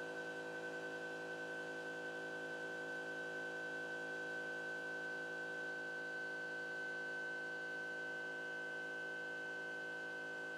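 CNC drawing machine's stepper motors running as it moves the pen, a steady high-pitched whine made of several fixed tones.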